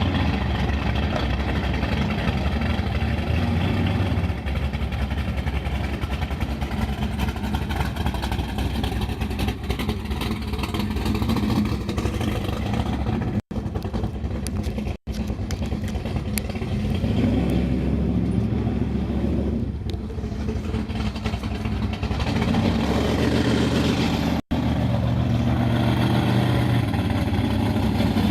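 Big-block Ford V8 drag-car engine running loudly and fairly steadily, with a few sudden breaks where the footage cuts.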